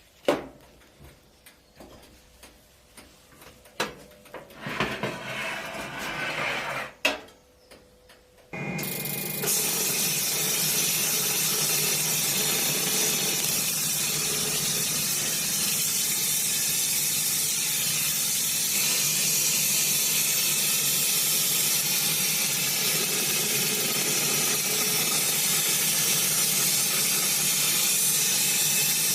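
Scattered clicks and knocks of handling for the first eight seconds or so, then a loud, steady spraying hiss starts suddenly and runs on without a break.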